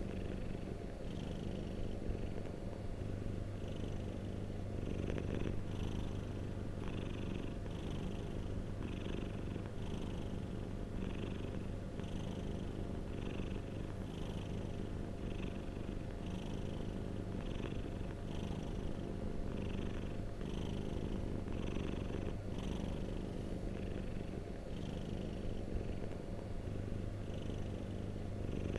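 Domestic cat purring steadily and close up, with a soft rhythmic rise and fall about once a second.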